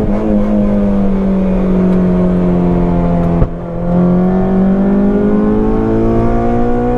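Honda K24A four-cylinder engine in a swapped Mini accelerating hard under load. The engine note breaks briefly about three and a half seconds in, then climbs steadily in pitch again.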